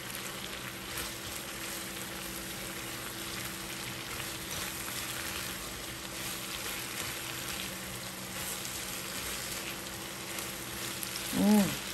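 Orange-sauced chicken pieces sizzling in a nonstick wok while a silicone spatula stirs and scrapes them, over a steady low hum. A brief vocal sound comes near the end.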